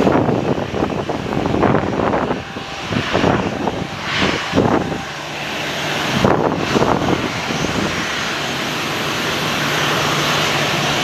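Airplane engines running, with irregular gusts of wind buffeting the microphone over the first seven seconds or so. After that the sound settles into a steady engine drone.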